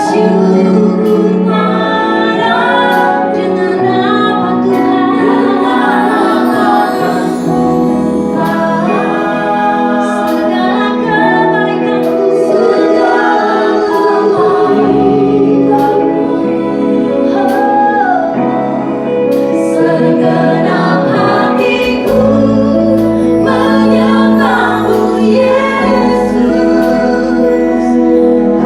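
Praise and worship song: a group of singers holding long notes over a band, with steady bass notes and regular drum and cymbal hits.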